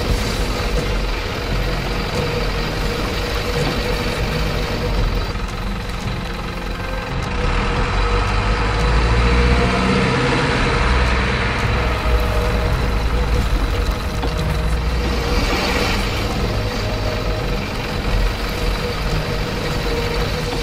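Radio-controlled model trucks running, with a steady truck-engine-like drone that grows louder for a few seconds around the middle.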